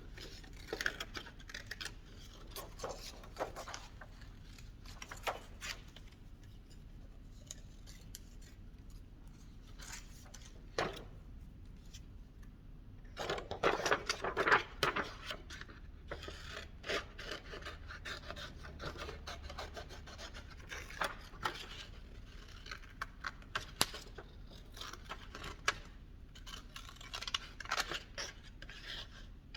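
Scissors cutting out shapes from a magazine page: irregular snips with paper rubbing and rustling between them, busiest about halfway through.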